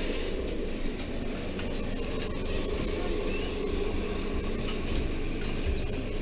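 Steady mechanical hum and rumble inside a railway sleeper coach.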